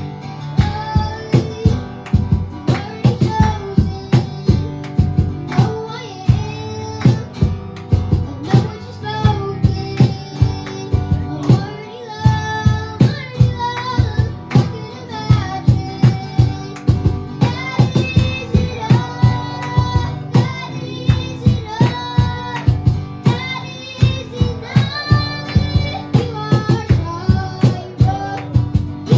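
Worship band music: singing over a band with a steady drum beat.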